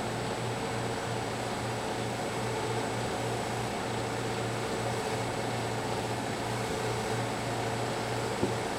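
Electric buffing machine running steadily with a low hum, its compound-loaded buffing wheel polishing the finish and bearing edge of a wooden stave drum shell.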